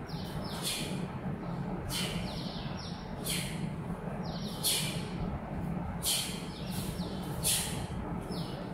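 A bird calling, six short high chirps at even spacing, each falling in pitch at its end, over a steady low hum.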